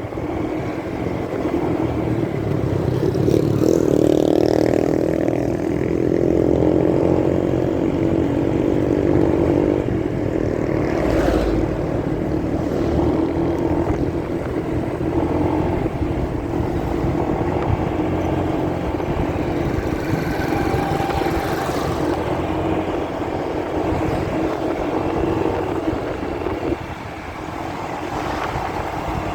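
Motorcycle engine running while riding, heard muffled through a phone carried in a pocket. The engine note climbs as the bike accelerates a few seconds in, and there is a short knock around the middle.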